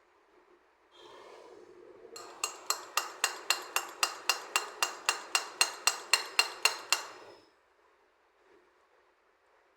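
A rapid, even run of metallic clicks, about four or five a second for some five seconds, each with a short bright ring, as of metal tapping or ratcheting on metal.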